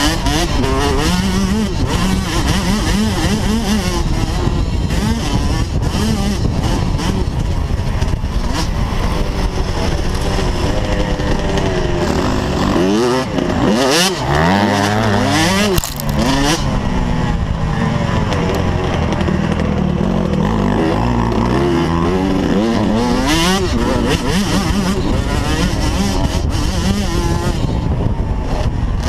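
Small motocross bike engine running hard, its pitch rising and falling again and again as the throttle opens and shuts, with sharper rev sweeps in the middle of the stretch.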